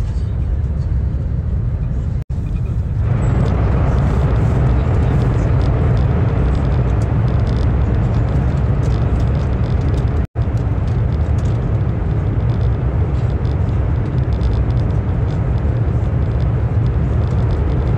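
Steady rumbling running noise of a passenger train heard inside the carriage, getting louder about three seconds in. It cuts out for an instant twice, at edit cuts.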